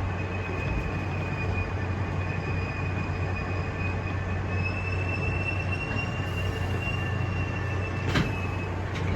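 Hankyu Imazu Line electric train running slowly over the rails with a low steady hum and a thin high squeal that rises slightly in pitch and stops shortly before the end, followed by a click.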